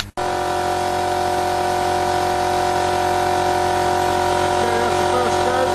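A machine running steadily, starting abruptly just after the start: an even motor hum made of several steady tones.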